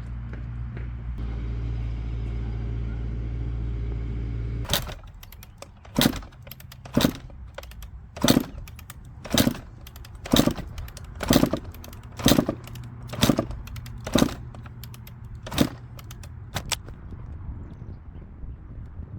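A steady low hum that cuts off about five seconds in, then about a dozen sharp clunks roughly a second apart, typical of a 1995 Suzuki RM125 two-stroke dirt bike being kicked over repeatedly without the engine catching.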